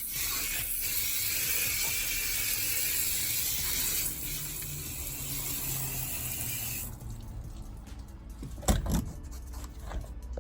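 Water spraying from a hose, a steady hiss that stops after about seven seconds. A single thump comes near the end.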